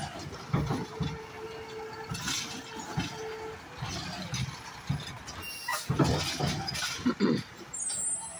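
Garbage truck working at a pickup: irregular mechanical clanks and knocks from its lifting and packing gear. A steady whine runs for a couple of seconds near the start, and a flurry of louder knocks comes about six to seven seconds in.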